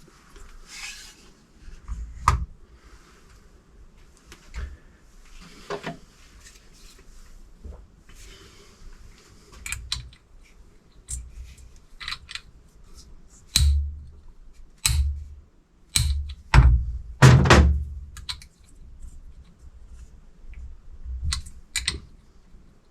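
Hand tools clicking and knocking on the metal of an Audi SQ7's Valeo electric supercharger while its left-hand-threaded nut is worked loose. The clicks come irregularly, with a denser, louder run of knocks and thumps about two thirds of the way through.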